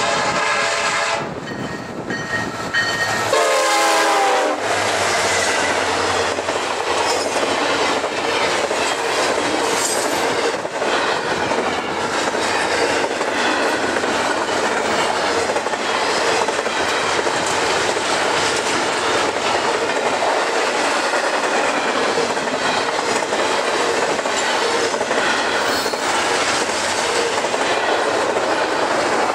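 Freight locomotive air horn sounding twice as the train nears, the second blast dropping in pitch as the locomotive goes by. Then the double-stack container cars roll past with a steady rumble of wheels and rail clicks.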